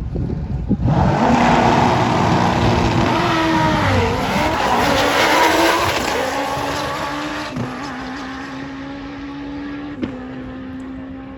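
Drag-racing motorcycle engine at full throttle. It bursts in about a second in, holds loud for several seconds with its pitch dipping and climbing again, then fades, leaving a steady hum.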